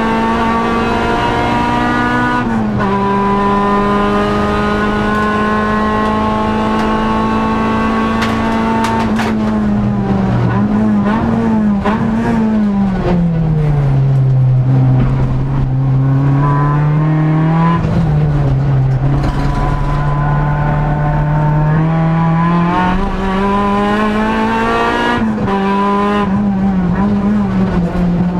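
Honda Civic EG race car's engine heard from inside the stripped cabin, running hard under load. Its pitch climbs steadily, drops at a gear change a couple of seconds in, then falls through a series of quick rises and dips around the middle as the car slows for a corner, and climbs again as it accelerates away, with another brief dip near the end.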